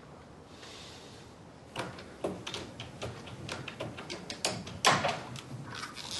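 A run of light clicks and knocks from things being handled in a drawer or cabinet, starting about two seconds in, with one louder knock near the end.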